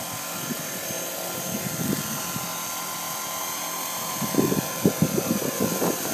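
Radio-controlled MD500 scale model helicopter flying, a steady high-pitched whine over the rotor noise. From about four seconds in, uneven low buffeting bursts join it.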